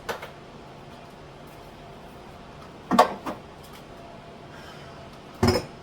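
Three short knocks in a kitchen cupboard as containers are handled and put away: a light one at the start, a louder one about three seconds in, and the loudest near the end.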